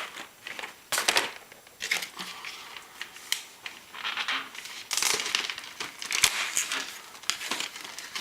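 Cardboard advent calendar doors being torn open and their contents handled, with irregular crinkling, tearing and crackling of paper and packaging.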